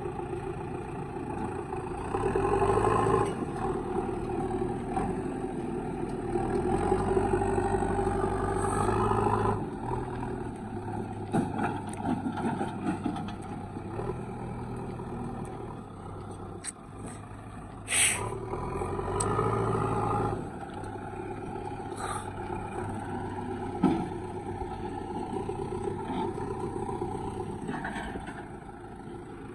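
JCB 3DX backhoe loader's diesel engine running and revving up under load several times as it works. Scattered knocks are heard, and there is one short sharp hiss about two-thirds of the way through.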